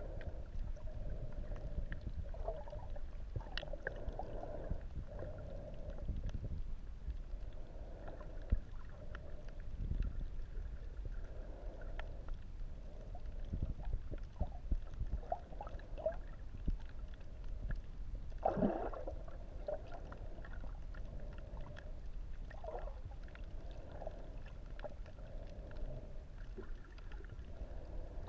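Underwater sound recorded through a camera: a steady muffled low rumble with a hum and scattered faint clicks. A louder gurgling swell comes about two-thirds of the way through.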